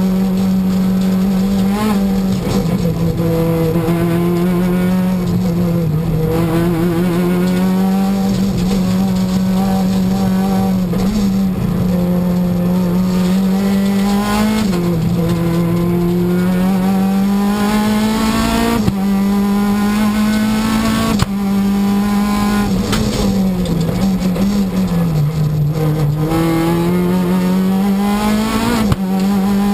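Renault Clio Sport rally car's four-cylinder engine at full effort, heard from inside the cabin: its pitch climbs steadily through each gear and drops sharply at every shift, about every two to four seconds. A few sharp knocks break in, one about nineteen seconds in and another near twenty-one seconds.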